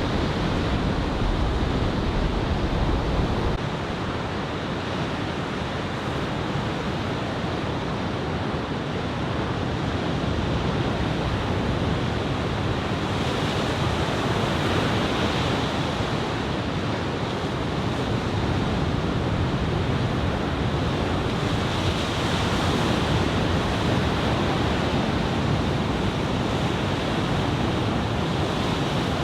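Ocean surf: a steady rush of head-high typhoon swell breaking, swelling louder now and then as waves break. Wind buffets the microphone with a low rumble, strongest in the first few seconds.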